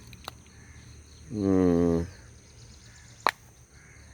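A man's drawn-out hesitation sound, "uhh", lasting under a second, over a steady high-pitched insect drone. There is a single sharp click a little past three seconds.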